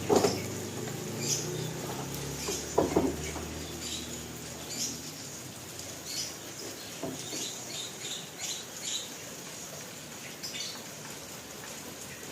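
Heavy rain falling steadily, with scattered sharp taps of drops or stones striking a hard surface and two louder knocks early on. A low hum fades out over the first few seconds.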